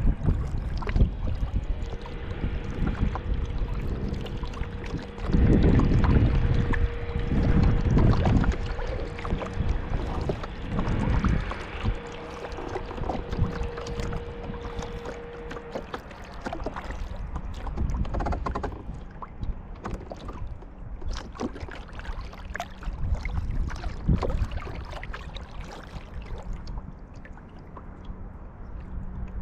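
Kayak paddling on open water: paddle blades dipping and splashing, with water dripping and lapping against the hull. The strongest splashes come about six and eight seconds in, and the sound grows quieter near the end.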